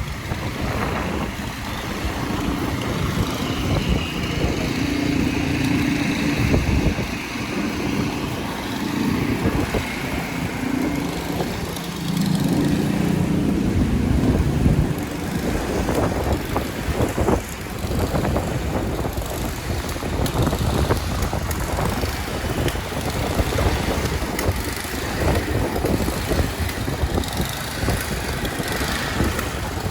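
City street traffic: vehicle engines running and passing, with a low steady engine tone for a few seconds twice in the first half and a run of short knocks and clatter in the second half.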